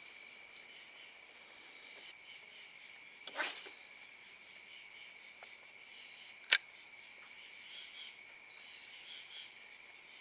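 Steady night chorus of crickets and other insects at several high pitches, with a brief rustle about three seconds in and a single sharp click a little past halfway.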